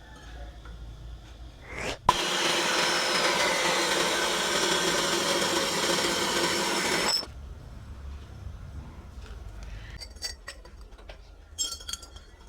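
A power tool runs at a steady speed for about five seconds, starting suddenly and cutting off abruptly. A few light clicks follow near the end.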